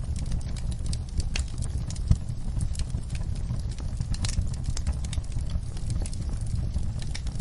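Wood fire crackling in a fireplace: a steady low rumble of burning with irregular sharp pops and snaps, one louder pop about two seconds in.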